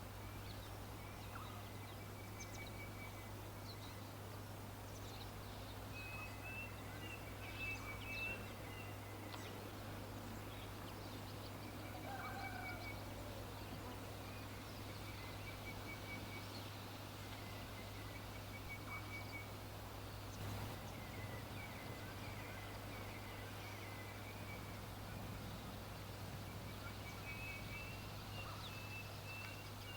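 Birds calling: repeated short, high trilling notes throughout, with one lower, falling call about twelve seconds in, over a steady low hum.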